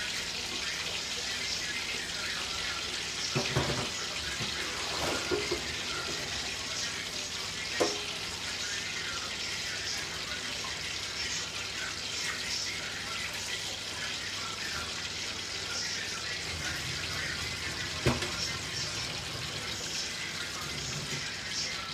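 Aubergine slices frying in hot oil in a stainless steel pan: a steady sizzle with fine crackling, and a few sharp clicks along the way.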